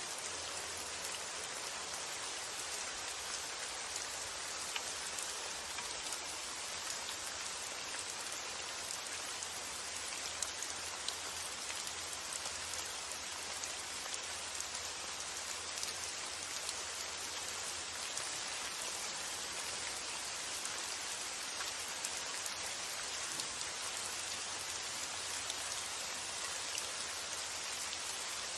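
Steady rain falling, a constant hiss of rain with many small drops pattering.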